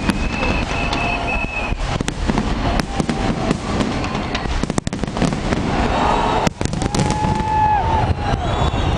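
Fireworks going off in quick succession, a dense run of cracks and bangs, with a few high held whistling tones over them.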